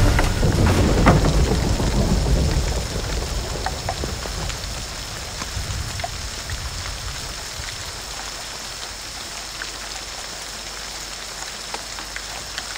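Steady rain with scattered drips, under a low rumble that fades away over the first two or three seconds.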